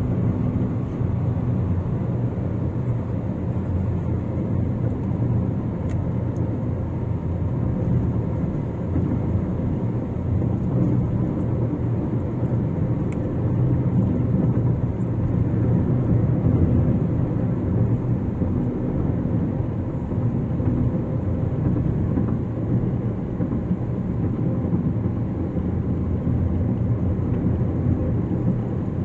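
Steady road noise of a car cruising on a concrete-paved highway: an even low rumble of tyres and engine that holds the same level throughout.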